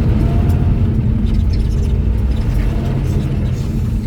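Steady low rumble of a vehicle's engine and tyres heard from inside the cabin while driving, with a few faint clicks and rattles.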